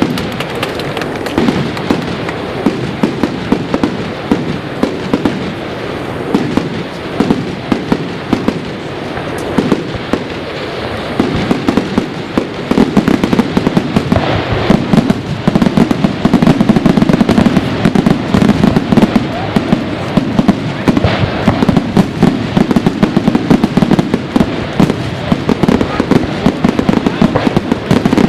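Fireworks display: a dense, continuous run of crackling and popping bursts, growing heavier and louder about halfway through.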